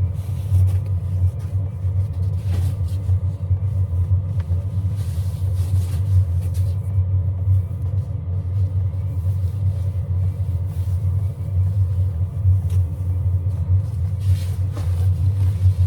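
Steady low rumble of a kei van on the road, with faint scattered clicks.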